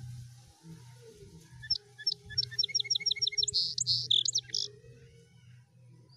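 A bird chirping: a run of short, high chirps, about five a second, starting about two seconds in, then a few louder, longer notes about four seconds in. A low steady hum runs underneath.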